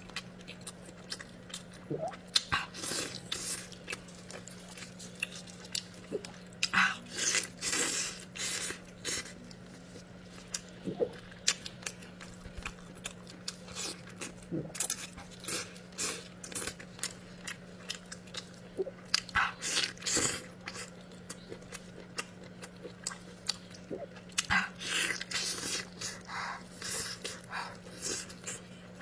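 Close-miked chewing and biting of food: irregular bursts of mouth and crunching noises every second or so, over a steady low hum.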